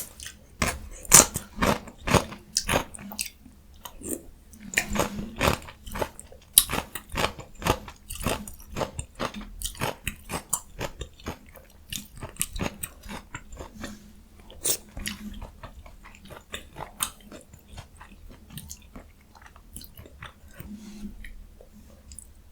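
Close-miked eating sounds of jjajang ramyun with young radish kimchi: crisp crunches and wet chewing clicks, opening with one sharp loud click. The chewing is dense at first and grows sparser over the last third.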